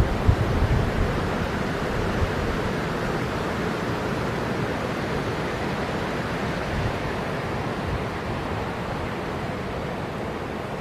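Strong wind rushing through the forest and buffeting the microphone with low rumbling gusts at the start, then a steady rushing that slowly eases.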